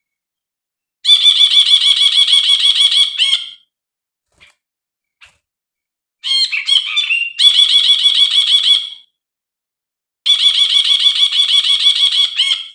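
Brinji bulbul singing in three bursts of rapid, evenly repeated notes, each burst about two to three seconds long with short pauses between; a tutor/lure song used to train or draw in brinji.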